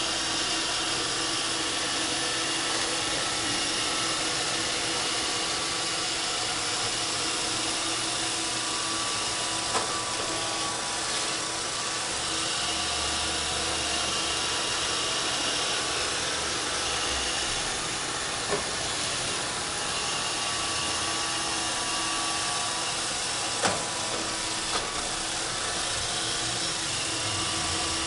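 Roomba 531 robot vacuum running, a steady whirring hiss of its vacuum motor and brushes. A few short knocks come through it, the loudest about two-thirds of the way in.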